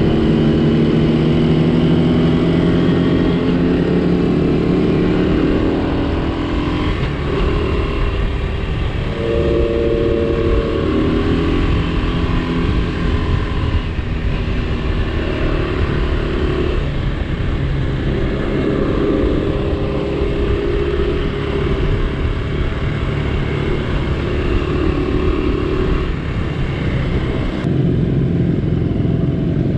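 Small vintage Honda motorcycle engine running on the road, its pitch rising and falling every few seconds with throttle and gear changes, over a steady low wind rumble.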